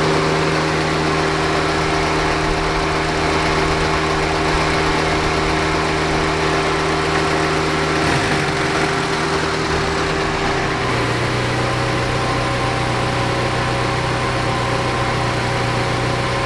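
Saab 90's engine idling on its rebuilt Stromberg carburettor, the idle being set down from about 1,000 rpm. About eleven seconds in, the engine note drops a step to a slower idle.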